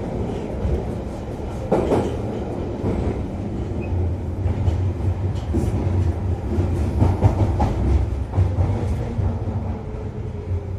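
London Underground Piccadilly line train running, heard from inside the carriage: a steady low rumble of wheels on track with scattered clicks and rattles, and a slowly falling whine near the end.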